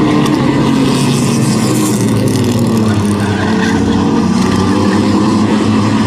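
Several race trucks' engines running loud and steady, their engine notes slowly rising and falling in pitch as the trucks circle the track.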